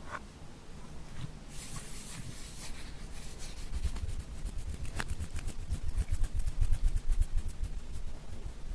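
Glossy slime being squished and mixed by hand: a run of rapid sticky clicks and crackles over soft low thuds, busiest and loudest in the second half.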